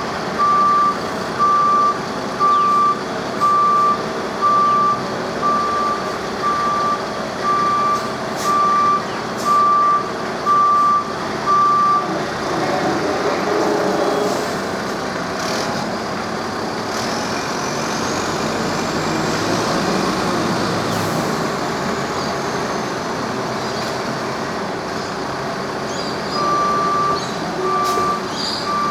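Heavy vehicle's reversing alarm beeping, one steady high beep about every three-quarters of a second, over the running noise of the vehicle. The beeping stops about twelve seconds in, leaving the engine noise with a faint high whine that rises and falls, then starts again a few seconds before the end.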